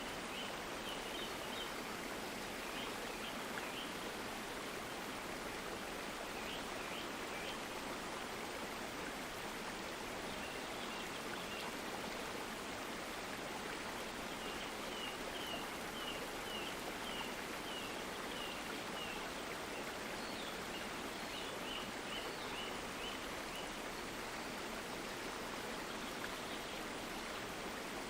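A stream flowing with a steady rush of water. Short high chirps come in several quick runs over it.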